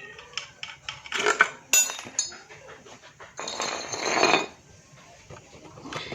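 Metal hand tools and motorcycle engine parts clinking and knocking together in short, irregular strikes, with a longer noisy stretch of handling about three and a half seconds in. The engine is not running.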